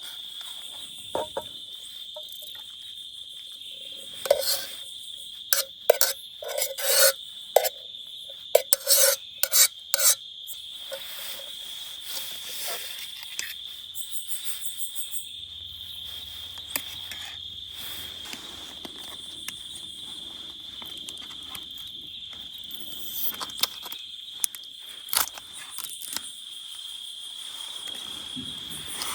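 A steady, high, even insect chorus runs throughout. Over it come a cluster of sharp clicks, knocks and short scrapes from objects being handled, most of them in the first third, with a few more late on.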